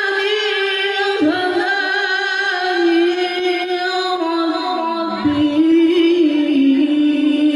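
Male qori reciting the Quran in melodic tilawah style, holding long high notes with wavering ornaments; the pitch dips and settles lower about five seconds in.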